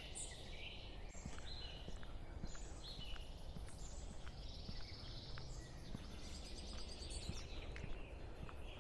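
Several small birds chirping and calling in quick, short notes, over a steady low background rumble.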